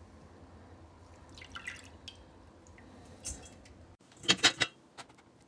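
Water dripping and trickling as sprouting glasses and sprouts are rinsed and handled, with a quick cluster of sharp clinks about four seconds in.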